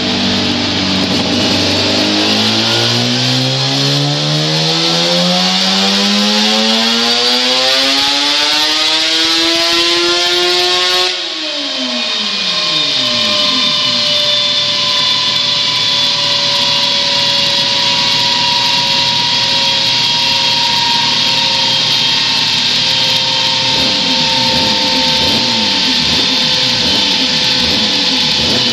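Suzuki RG500 Gamma's two-stroke square-four engine on a dyno: the revs climb steadily in one long power run for about eleven seconds, then the throttle shuts and the revs fall away. The engine then runs unevenly at low revs under a steady whine that slowly drops in pitch.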